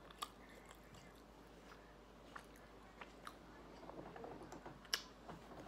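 Faint closed-mouth chewing of a big bite of breaded chicken sandwich with bun and cheese, with scattered small mouth clicks and one sharper click about five seconds in.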